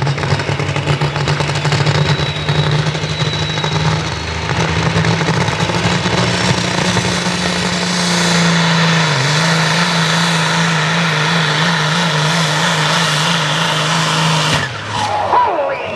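Diesel truck engine held at high revs, a loud steady drone whose pitch wavers up and down in its second half, then cuts off suddenly near the end.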